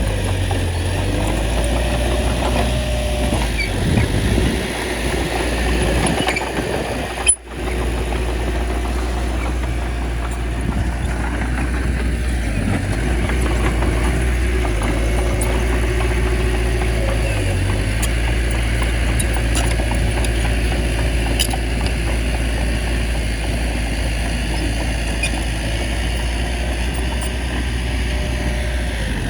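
Bulldozer's diesel engine running steadily, with a brief sudden break about seven seconds in.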